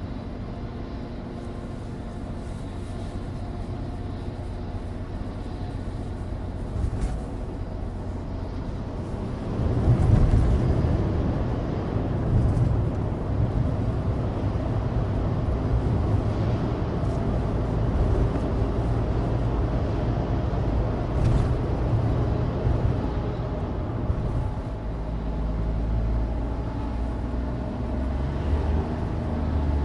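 A 2016 Suzuki Alto Turbo RS heard from inside its cabin while driving: the 660 cc turbocharged three-cylinder engine runs steadily under tyre and road noise from studless winter tyres. About ten seconds in, the sound grows louder and rougher and stays that way.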